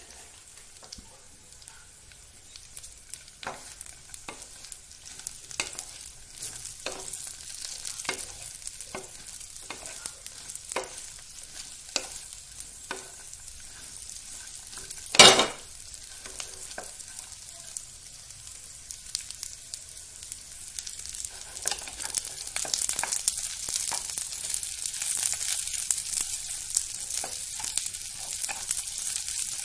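Sausage slices and potato pieces sizzling in a frying pan while a wooden spatula stirs and scrapes them, in strokes about once a second. One loud knock about halfway through, and the sizzle grows louder in the last third.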